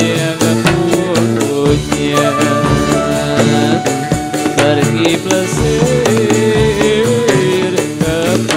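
Dolalak folk dance music played live: drums beating a steady rhythm under a wavering melody line.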